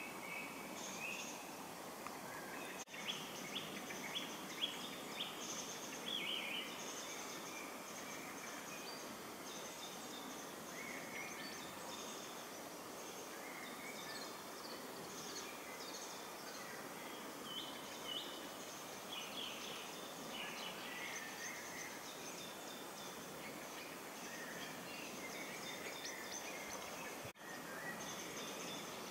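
Small birds calling and singing, short chirps and trills scattered throughout, over a steady outdoor background hiss.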